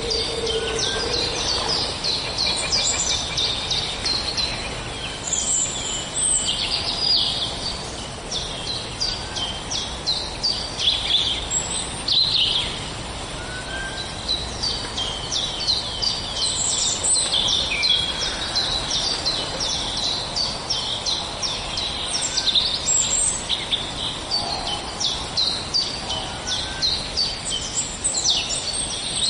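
Many small birds chirping and singing at once in a dense, continuous chorus of quick high chirps, over a steady background hiss.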